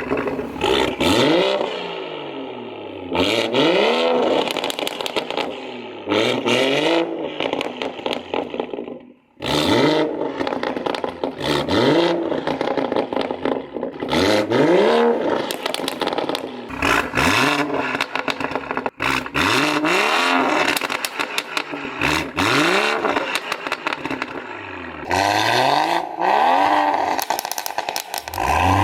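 Tuned BMW B58 turbocharged straight-six revved over and over, the pitch climbing and falling with each blip. As the revs drop, the exhaust crackles and pops on the overrun.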